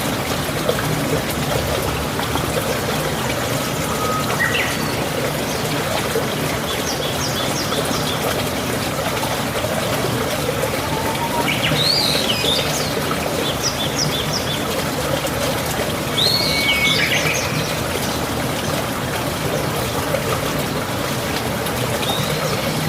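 Flowing water trickling steadily, with birds chirping in short, quick phrases every few seconds.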